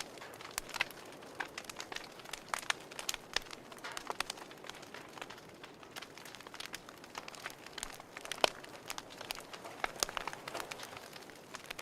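Wood fire crackling in a fireplace: irregular sharp pops and snaps over a soft steady hiss, with one louder pop a little past the middle.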